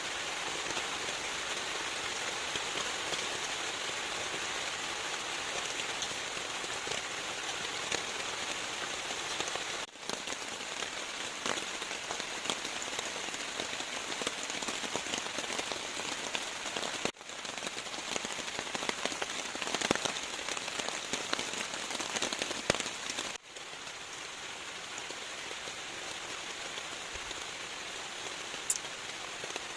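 Steady rain with scattered louder drops ticking through it. The sound breaks off for an instant three times, as if the recording is spliced.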